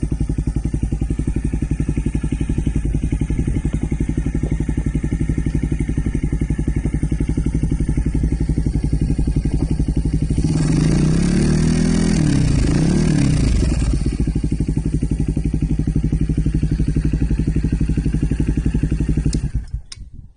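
Kawasaki KSR110 single-cylinder four-stroke engine idling steadily through a BEET Nassert aftermarket exhaust. It is revved up and back down a couple of times about halfway, returns to idle, and the sound cuts off near the end.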